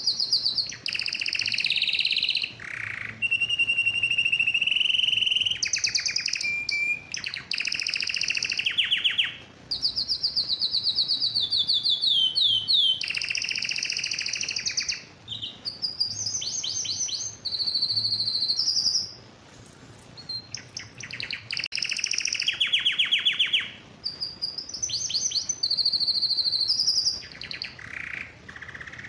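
Male domestic canary singing: long phrases of rapid trills and fast repeated notes, broken by brief pauses. It is the vigorous song of a male in breeding condition.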